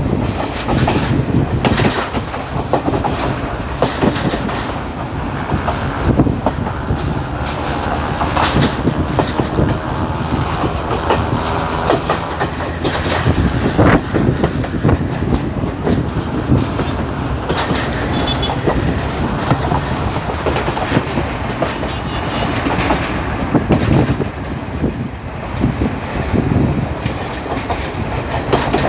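Passenger train running along the track, heard on board: a steady rumble of the carriage with wheels clattering and knocking over the rail joints.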